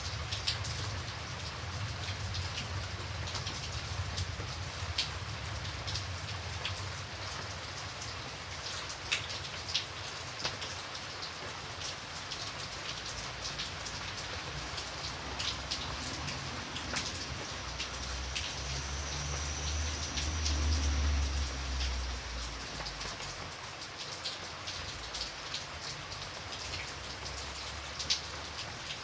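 Steady rain with many individual drops ticking sharply on a surface. A low rumble swells and fades about two-thirds of the way through.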